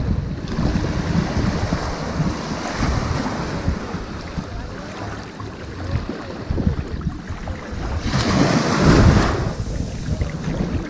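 Ocean surf washing onto a sandy beach, with one wave breaking and rushing up louder near the end. Wind buffets the microphone throughout with a low rumble.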